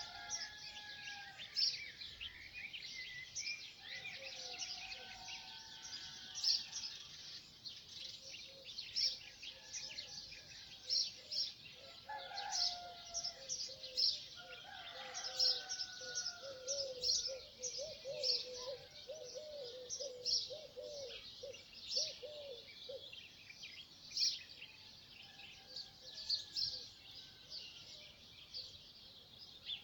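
Dawn chorus of many small birds chirping and twittering without a break. A few longer, lower calls come now and then, and a quick run of low warbling notes falls in the middle.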